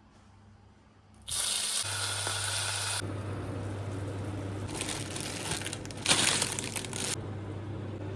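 Water running from a tap, turned on suddenly about a second in, splashing with two louder surges midway, over a steady low hum.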